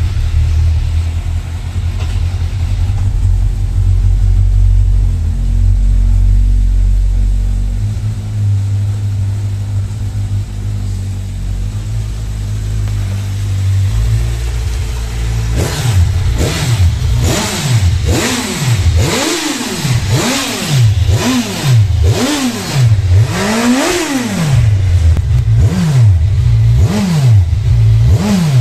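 Kawasaki Ninja 1000's inline-four engine, just started, idles steadily for about fifteen seconds. It is then revved in a quick string of a dozen or so throttle blips, each climbing and falling back.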